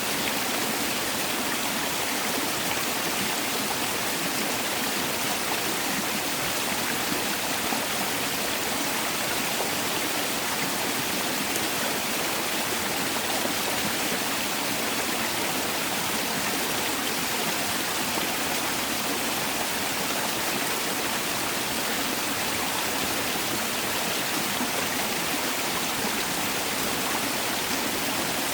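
Mountain valley stream rushing steadily over rocks, an even, unbroken sound of flowing water.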